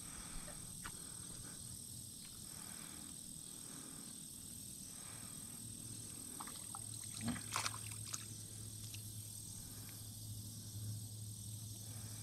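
Faint chorus of insects and frogs, pulsing softly, over a steady high whine. A few light clicks come about seven to eight seconds in.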